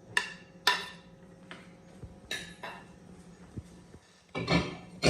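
Dishes and bowls clinking as they are handled and set down: several sharp, ringing clinks, then a louder clatter near the end.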